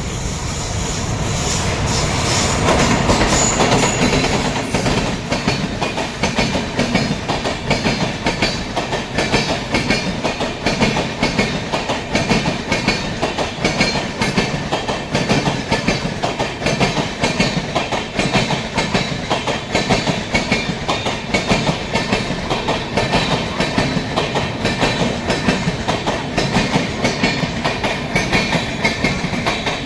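Express train running past at speed, its wheels clattering over the rail joints in a fast, even rhythm. The sound is loudest about three seconds in.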